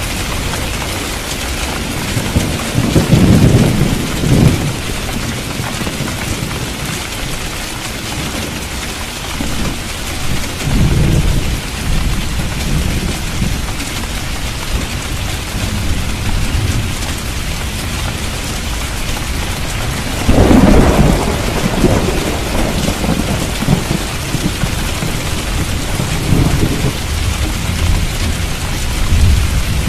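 Thunderstorm: heavy steady rain hissing, with rolls of thunder rumbling about three seconds in, again around eleven seconds, and loudest around twenty seconds.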